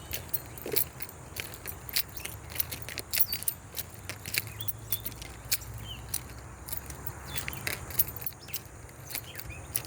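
Footsteps crunching on the gravel ballast of a railway track, an irregular run of sharp crunches several times a second, with a few short bird chirps.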